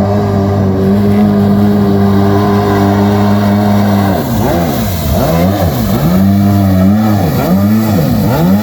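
Small two-stroke engine of a tiny jet boat running hard at a steady pitch. About four seconds in, its tone starts sweeping up and down over and over as the boat runs about on the water.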